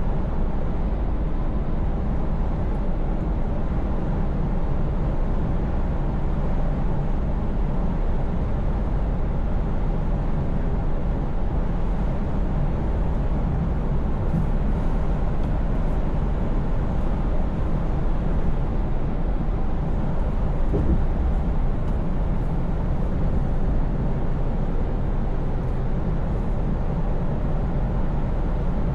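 Scania S580 V8 diesel truck cruising steadily, its engine hum running under an even wash of road and tyre noise with no change in pitch.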